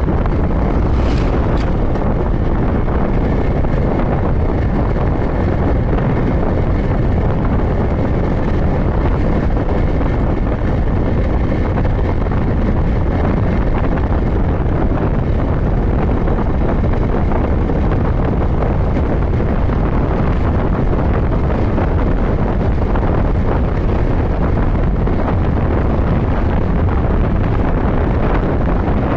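Motorcycle at road speed, heard as steady heavy wind noise on the microphone over the sound of the bike running.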